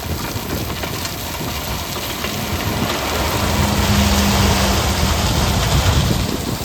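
Diesel engine of heavy construction machinery running under load, with a low rumble and a noisy rushing layer. It swells louder about three seconds in, then eases near the end.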